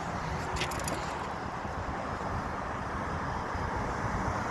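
Steady road traffic noise at a street crossing, with a brief high clicking just under a second in.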